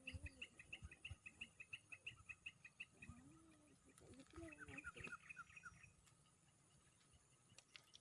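Faint bird calls: a rapid, even series of high chirps, about seven a second, that stops about three seconds in. A different high twittering with a lower call follows until about six seconds in.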